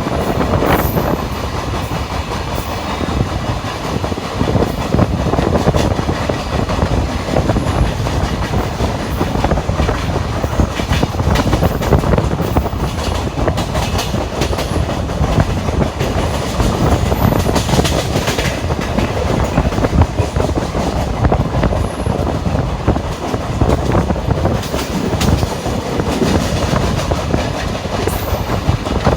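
Train running at speed on the rails: a steady loud rumble with the wheels clattering over rail joints.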